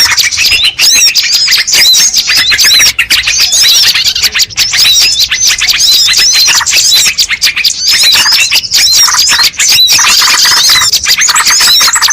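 A dense, unbroken chorus of small songbirds twittering, with many short, high, hooked calls overlapping several times a second. It is a bird-lure recording meant to draw wild birds in. Near the end a harsher, buzzier chatter thickens the chorus.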